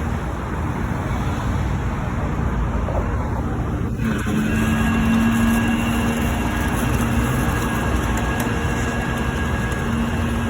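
A tow truck's engine runs under steady highway traffic rumble. About four seconds in, a steady whine joins it and holds, with the sound growing a little louder, as the truck works to lift the crashed car.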